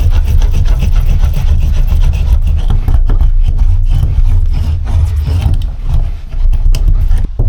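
Rubbing and scraping as sheets of sound-insulation material are pressed and smoothed onto the cab's sheet-metal panels, with many short strokes over a steady low rumble.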